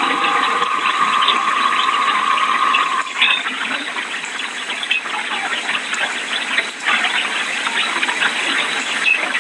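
Hurricane wind and rain making a loud, dense rushing noise with a crackling texture. A steady high tone runs over it and stops about three seconds in.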